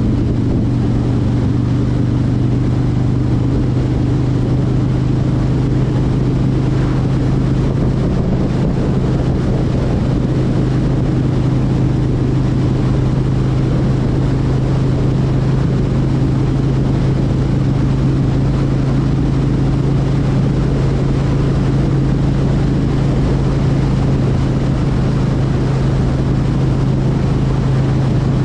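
Motorcycle engine running at a steady cruising speed, its note holding one pitch throughout.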